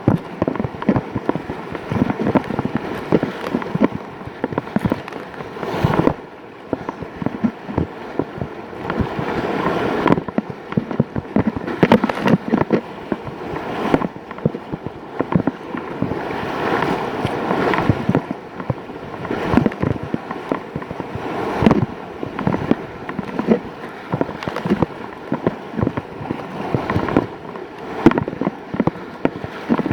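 Whitewater rapids rushing and splashing around a kayak, with water slapping over the boat-mounted phone's microphone in constant irregular sharp splashes.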